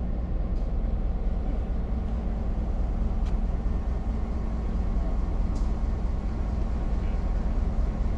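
Skunk Train rolling through the forest, heard from aboard: a steady low rumble of the cars running on the track, with a couple of faint ticks.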